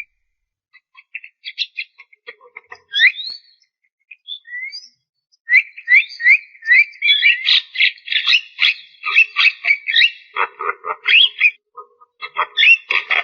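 Javan myna singing: a few scattered whistles and clicks at first, then, about five and a half seconds in, a dense run of quick rising whistled notes mixed with harsh chattering.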